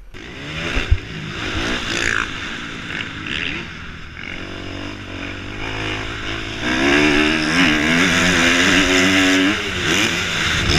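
Dirt bike engine running and revving, its pitch rising and falling over a rushing noise, louder from about seven seconds in.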